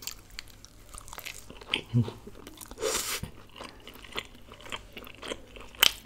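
Close-miked chewing and wet mouth clicks and smacks of a person eating naan and chicken in creamy gravy by hand. A brief rustle comes about three seconds in, and a sharp click near the end is the loudest sound.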